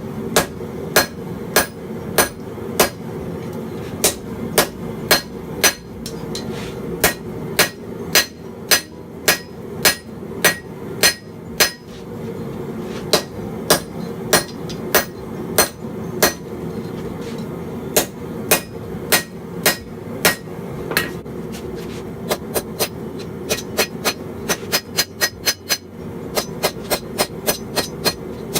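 Hand hammer striking hot blade steel on an anvil, at about two blows a second in runs with short pauses. The blows become quicker and lighter in the last few seconds. A steady hum runs underneath.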